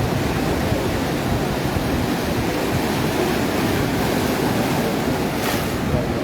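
Atlantic surf breaking on a beach, a steady rushing wash of waves, with a brief sharper hiss of a breaking wave about five and a half seconds in.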